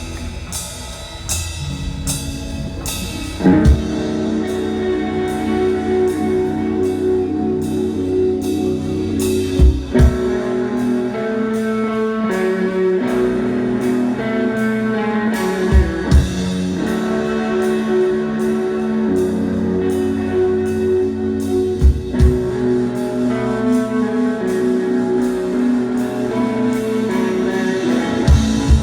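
A rock band playing live, with guitar and a drum kit; the drums hit in a steady beat and there are heavy accented hits about every six seconds.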